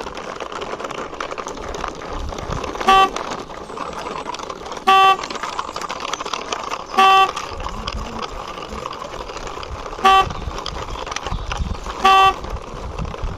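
A horn beeping in short single toots, five of them roughly two seconds apart, over a steady rushing noise.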